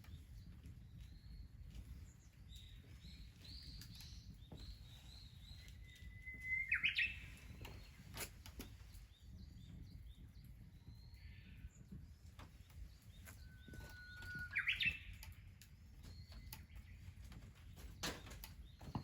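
Wild birds singing: one songbird gives two songs about eight seconds apart, each a held whistle ending in a quick rising flourish, among softer chirps. A few sharp clicks are heard, one near the end.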